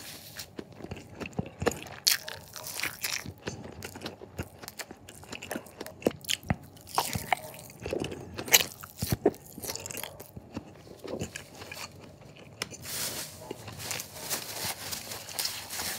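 A person biting and chewing Spam topped with chopped raw bird's-eye chillies, heard up close: irregular wet mouth clicks and crunching.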